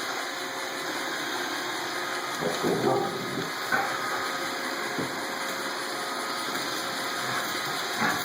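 iRobot Roomba robot vacuum running, a steady whirring hiss of its vacuum motor and brushes, with a few short louder sounds about three to five seconds in.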